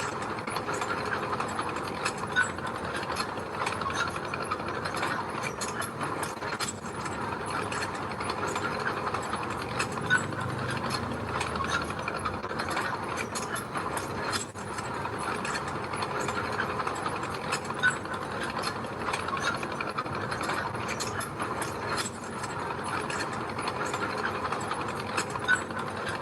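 A mini bulldozer running and working gravel: a steady, dense clatter of rattles and clicks over the engine, with a few louder knocks.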